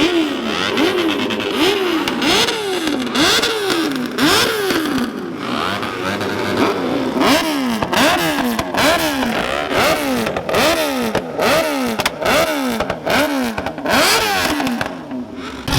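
A car engine revved over and over in quick blips, about one to one and a half rises and falls of pitch a second, with sharp cracks among the revs.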